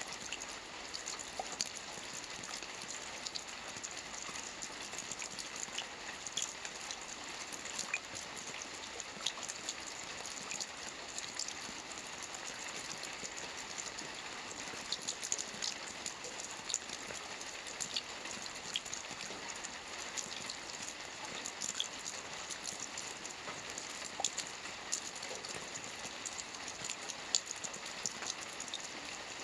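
Steady rain falling on a lake's water surface, a dense patter scattered with small individual drop ticks.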